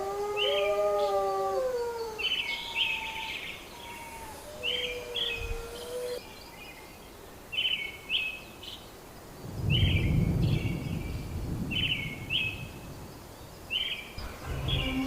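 Rainforest ambience: a bird repeats a short chirped phrase about once a second. Over the first few seconds there are drawn-out, gliding lower animal calls, and a low rumble comes in about ten seconds in.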